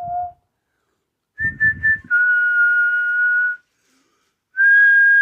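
A person whistling to call a dog: three short notes, then two long, steady, high whistles.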